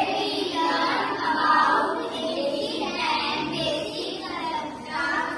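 Children singing, with voices held and gliding in pitch.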